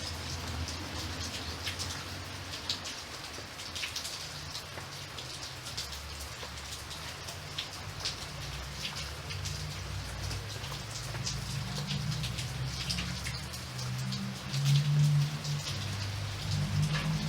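Steady rain, with individual drops heard as sharp ticks over an even hiss. A low rumble underneath grows louder about fourteen seconds in.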